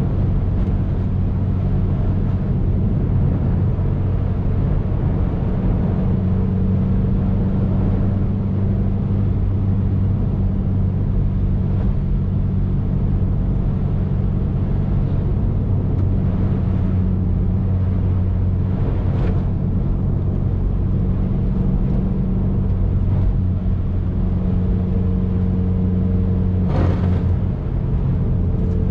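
2019 Subaru WRX's flat-four engine running at a steady cruise over road and tyre noise. A brief sharp click near the end.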